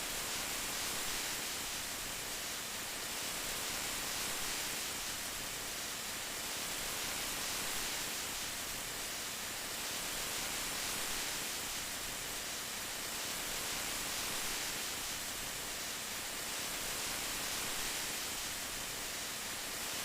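Steady rain falling: an even hiss with gentle swells in loudness every few seconds.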